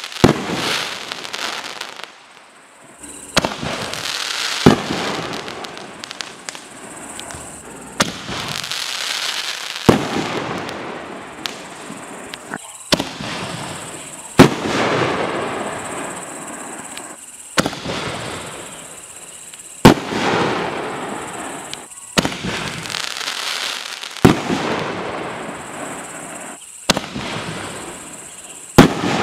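Aerial shells fired one after another from mortar tubes: a sharp report every two to three seconds, each followed by a long hiss that fades as the shell climbs and bursts.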